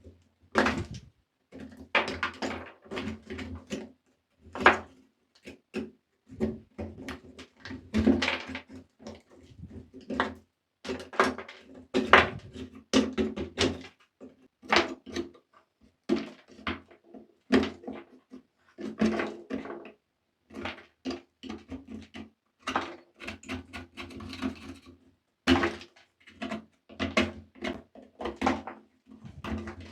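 Close-up handling and cleaning of a diecast toy motorcycle: a dense, irregular run of short scrapes, taps and knocks, one after another with brief gaps.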